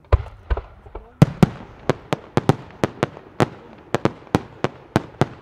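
Italian Vaccalluzzo aerial fireworks: two deep thumps, then a rapid string of sharp bangs, about four a second, as the bursts go off overhead.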